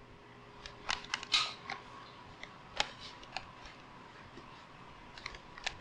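Irregular light clicks and small knocks, about a dozen spread over several seconds, with a short rustle about a second and a half in.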